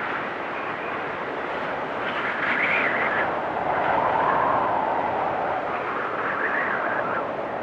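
Storm wind blowing hard and steadily, with whistling gusts that swell and fade: a higher whistle about two seconds in, a lower one around four seconds, and another near the end.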